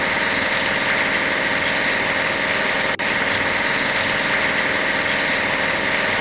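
A construction-vehicle engine running steadily, starting abruptly, with a brief break about three seconds in.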